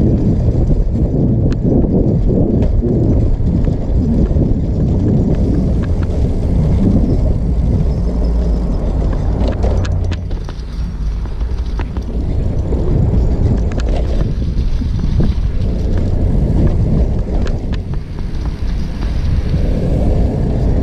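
Wind buffeting the microphone and rolling noise from a tricycle being ridden, a steady rumble that rises and falls, with a few light clicks.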